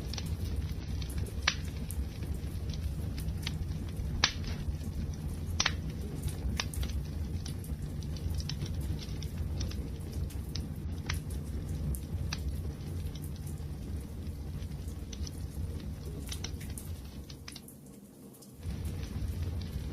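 Wood fire burning: a steady low rumble of flames with irregular sharp crackles and pops, a few much louder than the rest. The sound fades briefly near the end and comes back.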